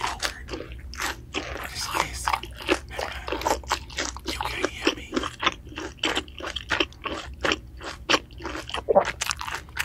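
Close-miked chewing of crispy fried food, a steady run of crisp crunches about three or four a second.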